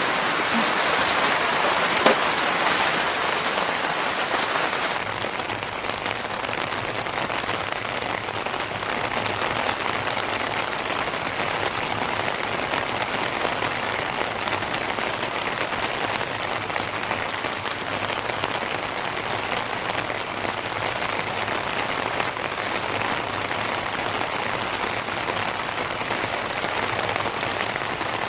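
Steady rain falling, with one sharp snap about two seconds in; the rain grows slightly softer about five seconds in.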